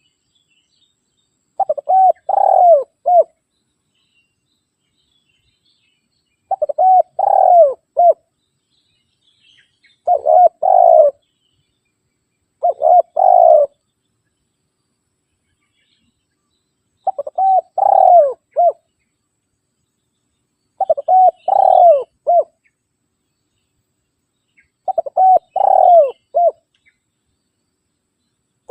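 Spotted dove (tekukur) cooing in repeated phrases: seven in all, each a quick stutter of short notes followed by two or three fuller coos, coming every three to five seconds with silence between.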